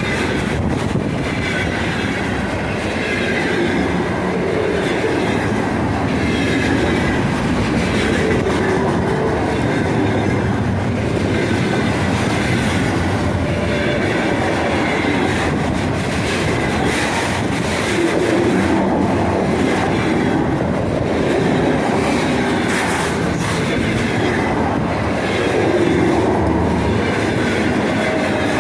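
Container freight train's wagons rolling steadily past, wheels clattering over the rail joints with some wheel squeal.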